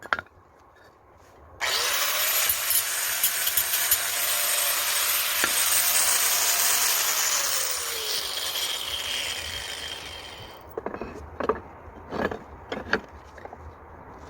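A power tool cutting for about nine seconds; its pitch slides down as it winds down, and it is followed by several knocks.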